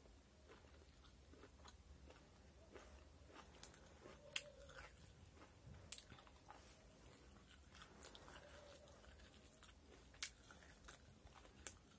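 A person eating crispy fried chicken pakoda close to the microphone: faint chewing with scattered crunches and mouth clicks, the sharpest about four seconds in and again near ten seconds.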